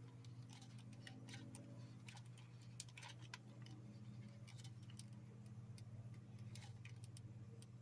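Faint, irregular small clicks and ticks as a can of R-134a refrigerant is screwed into the charging hose's dispenser, which pierces the can, over a low steady hum.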